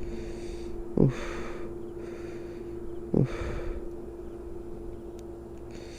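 A man's two sharp, hissing breaths of pain, about a second in and again about three seconds in, from a fresh wasp sting on his hand, over a steady low hum.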